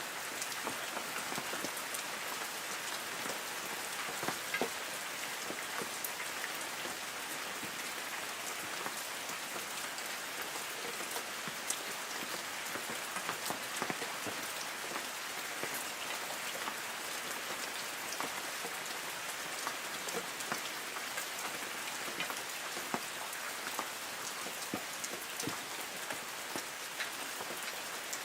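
Light rain falling steadily on trees: an even hiss of rainfall with many separate drops ticking on leaves.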